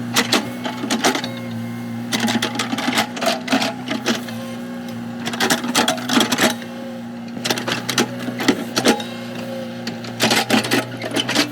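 Komatsu excavator's diesel engine running steadily, with repeated clusters of clattering and knocking from the digging work.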